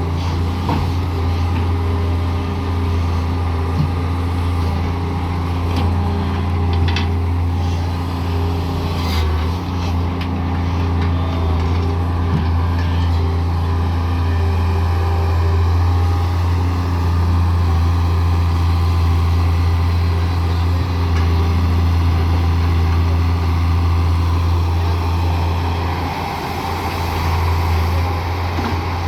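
Heavy diesel engine running steadily with a deep, even hum, and a couple of faint knocks about seven and nine seconds in.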